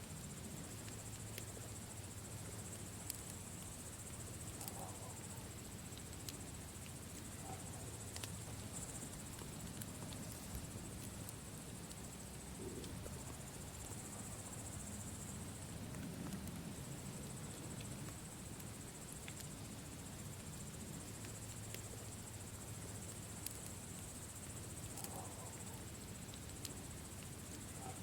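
Campfire crackling, with scattered sharp pops over a low steady rumble, against a steady high chirring of crickets.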